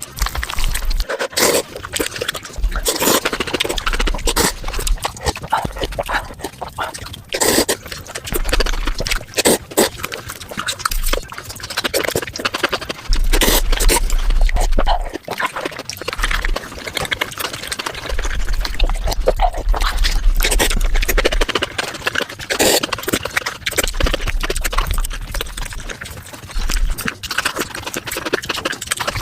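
Close-miked mukbang eating sounds, chewing, crunching and slurping, played back sped up about five times into a fast, dense run of wet clicks and smacks.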